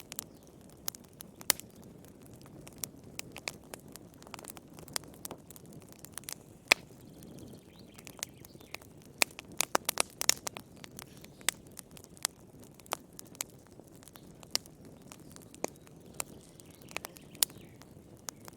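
Wood fire burning in a fireplace, crackling with irregular sharp pops over a soft low rustle, the pops coming thickest about nine to ten seconds in.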